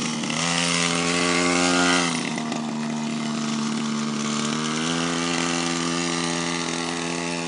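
Mini-bike's small engine revved hard, held at high speed for about two seconds, then throttled back to a steadier, lower speed. It picks up slightly again about five seconds in.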